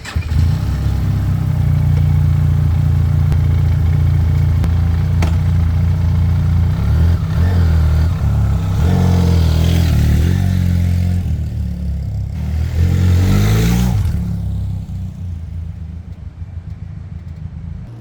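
Benelli TRK 502X motorcycle's parallel-twin engine running under way, coming in suddenly and holding steady, then revving up and down in the middle before dropping away quieter near the end.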